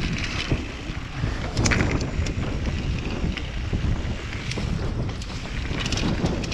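Wind buffeting a helmet-mounted microphone during a fast trail ride, over a steady low rumble of tyres on dirt, with scattered sharp clicks and rattles from the bike and helmet.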